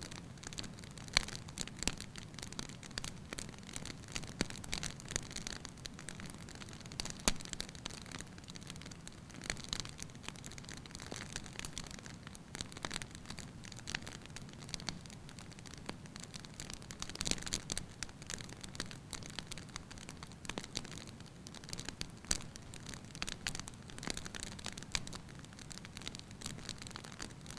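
Wood fire crackling in a fireplace: irregular pops and snaps over a low, steady rumble of burning.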